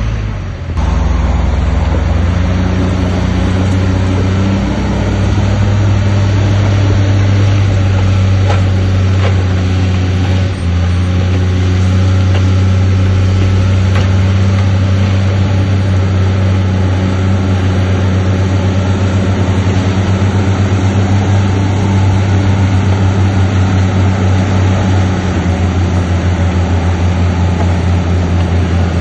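Heavy diesel engine of earthmoving machinery running steadily with a deep drone, with a few faint knocks over it.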